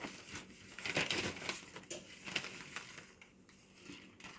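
Plastic bag and parchment paper crinkling in irregular bursts as breadcrumb-coated chicken breasts are taken out of the bag and laid in a lined baking pan, quieting near the end.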